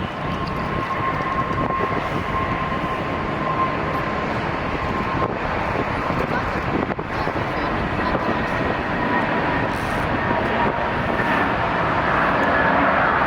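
Jet airliner engines running, a steady rush with a high whine that slowly falls in pitch and grows a little louder near the end.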